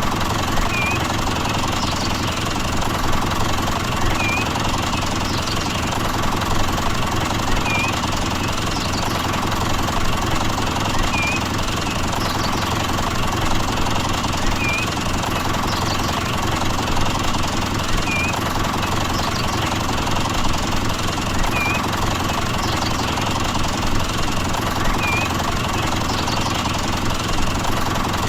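Small engine running steadily at an even pace, with a faint short chirp repeating about every three and a half seconds.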